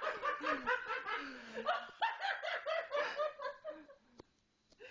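A person laughing hard in quick repeated bursts of voice, trailing off about four seconds in.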